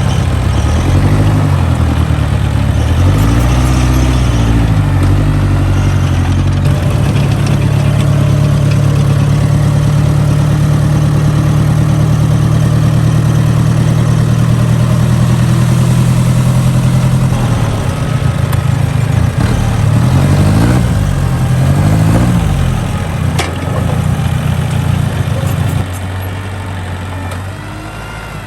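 Diesel engine of construction machinery running steadily, its pitch rising and falling several times as it revs, then settling to a lower, quieter idle near the end.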